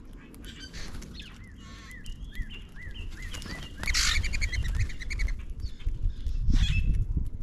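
Songbirds calling: a quick run of repeated chirps, then a loud harsh call about four seconds in and another call near the end, over a low rumble.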